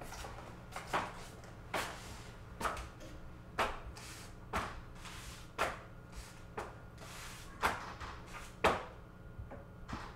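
Slow, regular knocks about once a second, several followed closely by a softer second knock, over a steady low hum.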